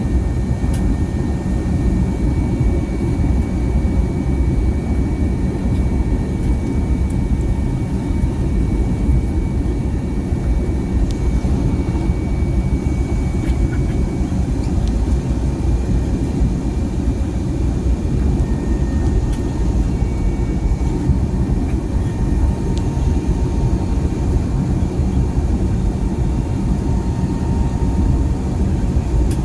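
Airbus A320neo cabin noise with the jet engines running: a loud, steady low rumble with a few faint steady whining tones above it.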